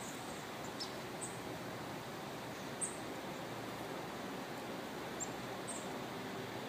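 Quiet outdoor ambience with a steady low hiss and a handful of short, high bird chirps scattered through it.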